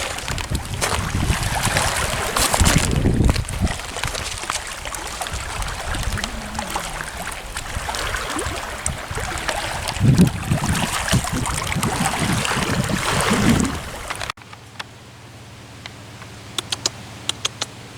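Lake water sloshing and lapping at the shore, with wind buffeting the microphone in low rumbling gusts. About fourteen seconds in it cuts off abruptly to a quiet, steady low hum with a few sharp clicks.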